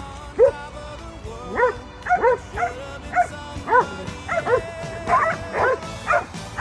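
A dog barking repeatedly: about a dozen short, high barks, some in quick pairs, over background music.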